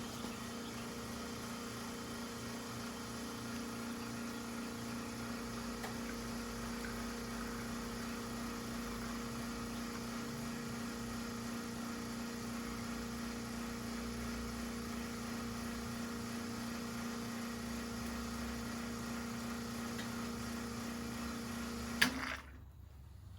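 Commercial espresso machine's pump running as a shot is pulled through a bottomless portafilter: a steady, even hum that ends with a sharp click near the end, when the brew is switched off.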